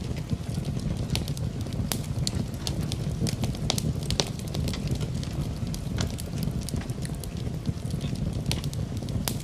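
Wood fire in a fireplace crackling, with many sharp, irregular pops over a steady low rumble of flames, blended with a soft, steady hiss of rain.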